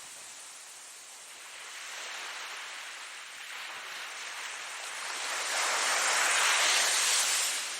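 Ocean waves washing in, softer at first, then a larger wave breaking and rushing up the shore, loudest in the last couple of seconds before it fades.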